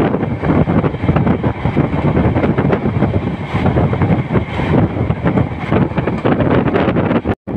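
Running noise and rattle of a passenger train's coaches at speed, heard from the open doorway, with wind buffeting the microphone. The sound cuts out for a moment near the end.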